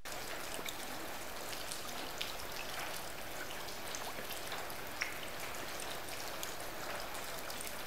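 Steady rain falling: an even hiss with scattered drop ticks and one sharper tick about five seconds in.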